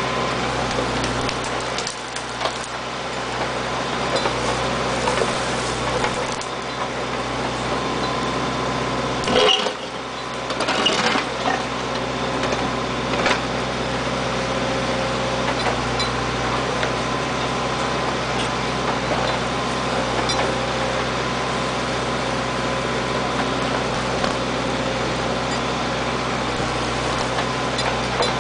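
Backhoe engine running steadily, with a few short knocks around ten to thirteen seconds in.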